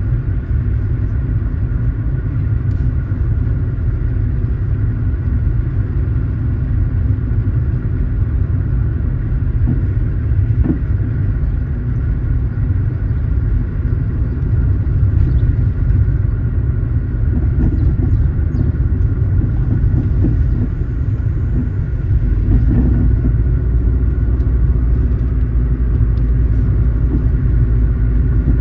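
Car driving along a road: steady low rumble of road and engine noise. The low rumble gets heavier about 22 seconds in.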